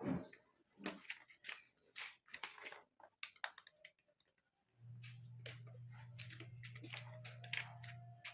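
Scattered clicks, taps and knocks of stand fan parts being handled and fitted. A low steady hum comes in about halfway through.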